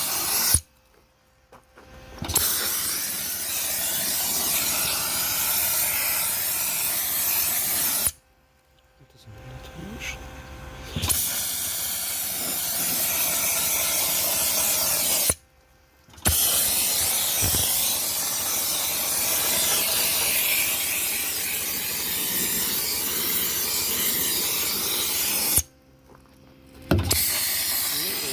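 Dry ice blasting gun spraying with a loud, steady hiss of compressed air. It cuts off suddenly four times, for about one to three seconds each time, before starting again.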